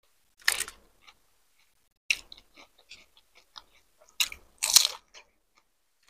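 Close-up crunching and chewing of pani puri: crisp, hollow puris dipped in spiced water and bitten whole. Loud crunches come about half a second, two seconds and four seconds in, the last the loudest and longest, with quieter chewing clicks between them.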